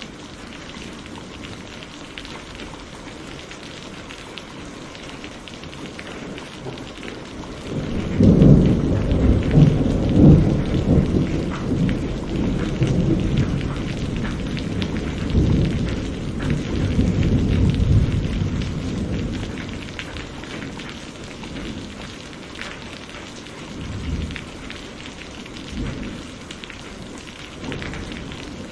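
Steady rainfall with a long peal of thunder. About eight seconds in it breaks in suddenly and rolls on for some twelve seconds before fading, then a few fainter rumbles come near the end.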